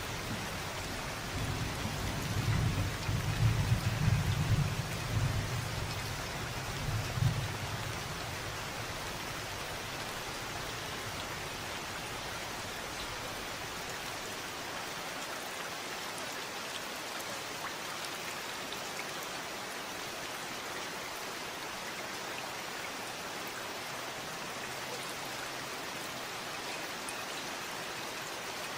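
Steady rain falling, with a low rumble of thunder rolling in about two seconds in, loudest for a few seconds and ending in a short peak before it dies away, leaving only the rain.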